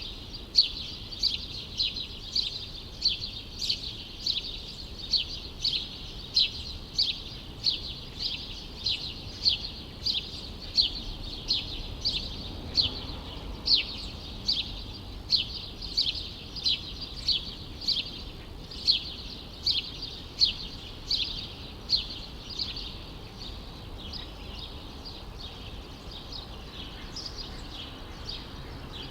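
A small bird repeating one short, downward-sliding chirp at an even pace of about two a second, stopping about three-quarters of the way through. Under it runs a steady low city hum.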